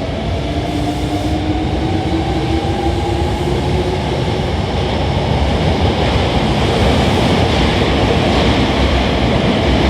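Hankyu 5100-series electric train pulling out and accelerating. Its motors make a faint whine that rises in pitch over the first few seconds, under a growing, steady rumble of wheels on rail.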